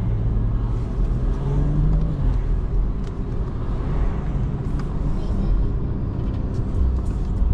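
In-cabin sound of a BMW 540i creeping in traffic: the low hum of its turbocharged straight-six engine, with road and tyre noise. The engine pitch rises slightly once, early on.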